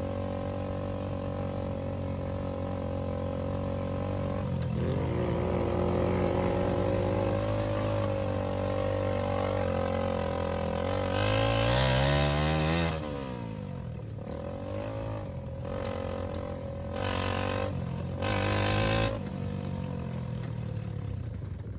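Go-kart engine running as the kart is driven. The revs climb to a loud peak about twelve seconds in and then drop back, with two shorter bursts of throttle near the end.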